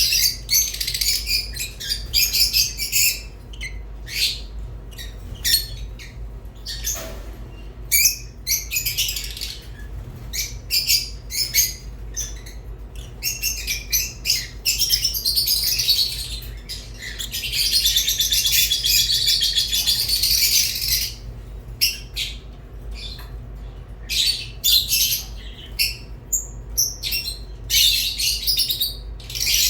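Rosy-faced and Fischer's lovebirds chirping and chattering in quick, high, overlapping calls, with a longer unbroken stretch of chatter a little past the middle. A steady low hum runs underneath.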